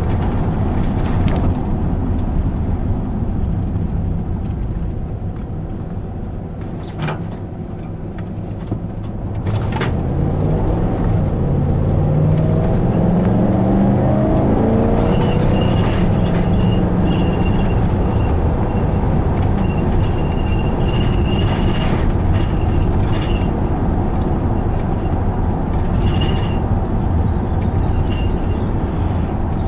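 Vehicle driving at road speed: steady engine and tyre noise, with the engine's pitch rising as it speeds up about ten seconds in.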